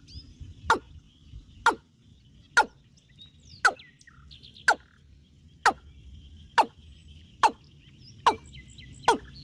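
An animal's short, sharp calls, about one a second, each dropping steeply in pitch and coming a little faster near the end, with faint bird chirping behind.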